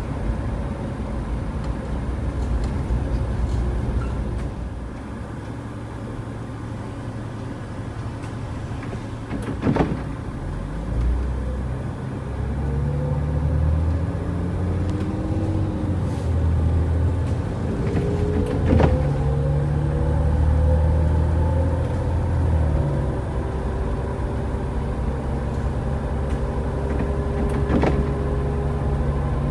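Car driving along: steady engine and road rumble, with the engine's pitch climbing as it picks up speed around the middle. Three short sharp knocks come at even spacing, about nine seconds apart.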